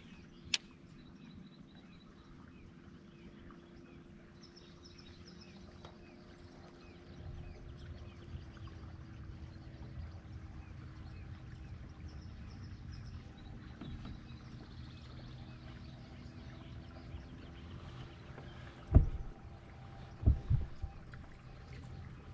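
Kayak on the water: a steady low hum with water and hull noise that grows a few seconds in, faint bird chirps, and two or three loud knocks near the end.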